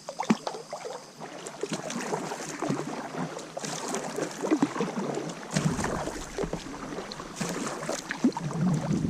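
Water splashing and sloshing around a kayak, with irregular small knocks and clatters against the boat. A low rumble joins about halfway through.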